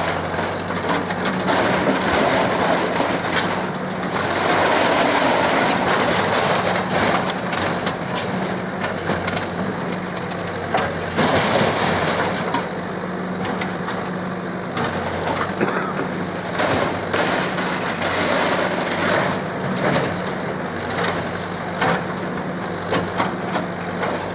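A bulldozer's engine running steadily while it demolishes a building, with irregular knocks and cracks of breaking structure and debris.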